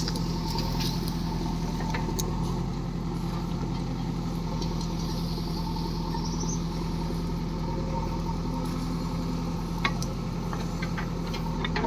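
Diesel engine of farm machinery running steadily at a constant low speed, with a couple of faint knocks near the end.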